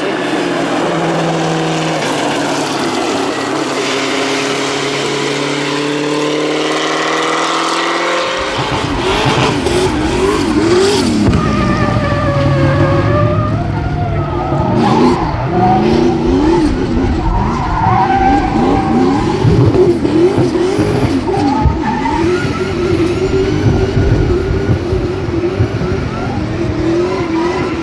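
Competition car's engine pulling with steadily climbing revs. From about eight seconds in, tyres squeal hard and continuously while the revs rise and fall quickly, as a car sliding sideways under power does.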